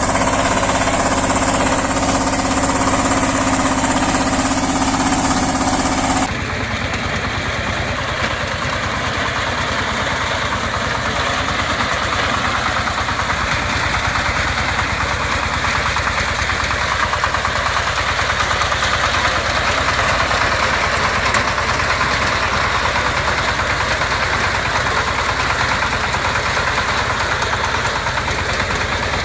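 Small engines of walk-behind tractors running steadily. About six seconds in, the sound cuts abruptly from one engine with a strong steady tone to another engine running with a rapid, even pulse.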